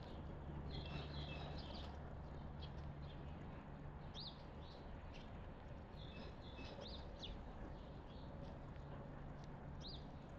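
Small wild birds chirping and calling at a feeding spot: scattered short high chirps and a few quick slurred notes, with two busier bursts of chatter, over a faint low steady hum.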